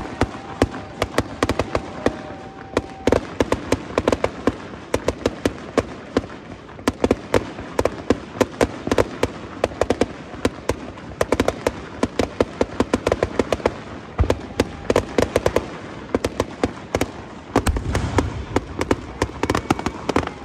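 Fireworks display: a dense, unbroken run of sharp bangs and crackling from bursting aerial shells, with a heavier, deeper boom about 18 seconds in.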